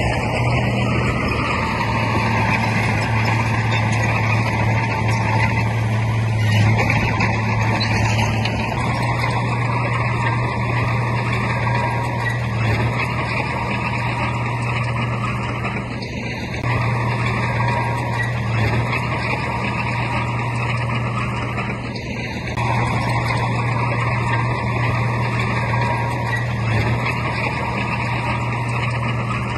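Heavy diesel earthmoving machinery, a bulldozer or dump truck, running steadily with a deep engine hum and broad mechanical noise. The level dips briefly about 16 and 22 seconds in.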